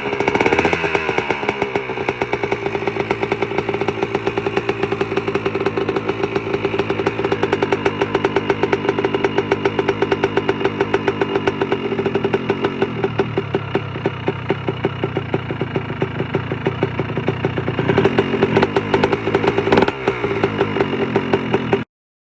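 1998 Honda CR125R's single-cylinder two-stroke engine running at idle, with a rev about a second in and a couple of throttle blips near the end; the sound cuts off abruptly just before the end.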